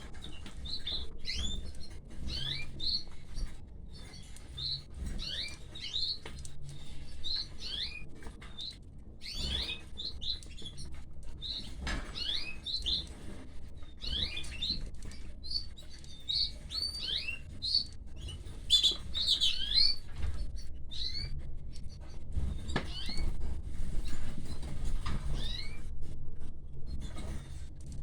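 Canaries chirping at the nest: many short, high chirps, some gliding up and some down, coming in clusters with brief gaps.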